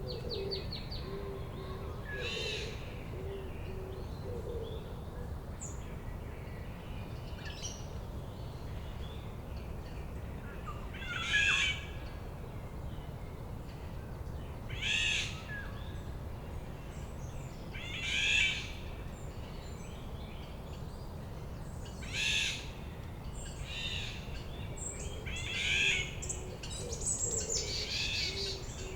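Forest birdsong: a songbird repeats a short, rapid phrase every three to four seconds. A low series of short hooting notes sounds at the start and comes back near the end, over a steady low background rumble.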